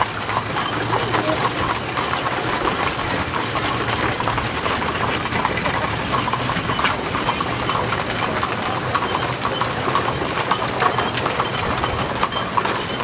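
Horses' hooves clip-clopping, many steps overlapping without a break, as horse-drawn wagons pass.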